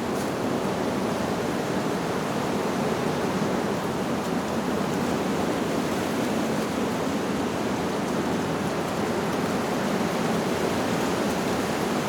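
Wind blowing steadily through leaves, an even rushing noise that hardly changes in level.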